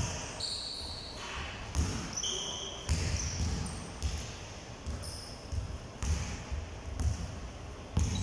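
Basketballs bouncing on a hard indoor court, several thumps a second at an uneven pace, with short high squeaks from sneakers on the floor.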